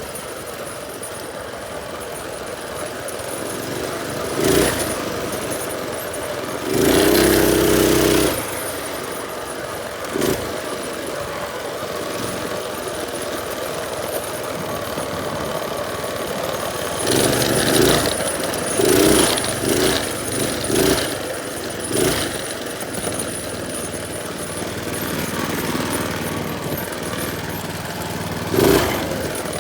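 Minibike's small engine running as it is ridden, getting louder in several short bursts.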